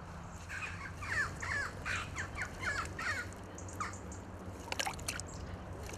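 Birds calling in a quick series of short, falling calls over the first half, then a few faint sharp clicks near the end.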